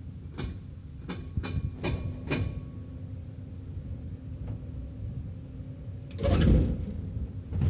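Heavy vehicle engine running low and steady, with five sharp metallic knocks in the first two and a half seconds, then a louder rush of noise about six seconds in.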